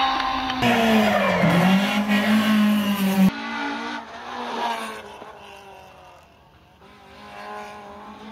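Toyota Starlet rally car's engine at full revs through a hairpin, the pitch dipping for the turn and climbing again as it accelerates away. About three seconds in, the sound cuts to a much fainter car engine that rises and fades twice.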